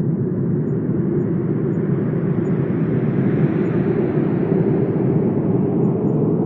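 Strong wind blowing steadily with a low, deep rush. A gust builds toward the middle, its hiss reaching higher, then eases off.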